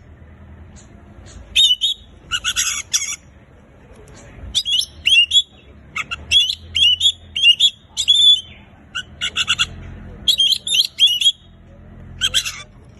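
Oriental magpie-robin (kacer) singing hard, in quick phrases of sharp whistled notes that bend up and down, with brief pauses between the phrases.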